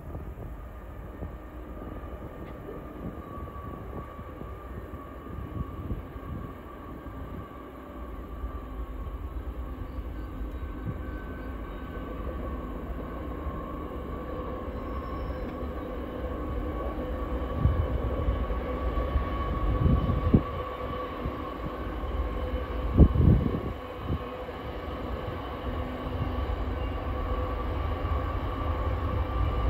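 Diesel locomotives of a freight train running with a steady engine drone and whine, growing gradually louder as the train approaches. A few short low thumps come about two-thirds of the way through.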